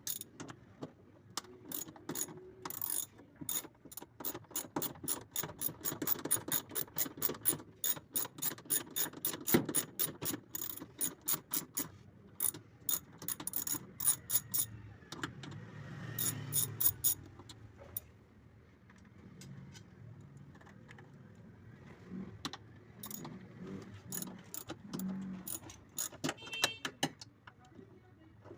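Hand socket ratchet wrench clicking in quick runs of about four clicks a second as bolts are turned, with pauses between runs and a sparser run of clicks near the end.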